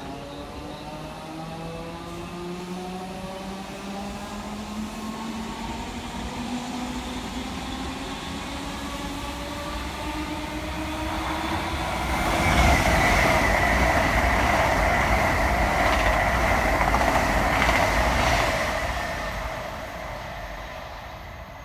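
Electric train whose motor whine rises steadily in pitch as it gathers speed. About twelve seconds in it passes close by, with loud rushing wheel noise and a steady high-pitched ring that fade over the last few seconds.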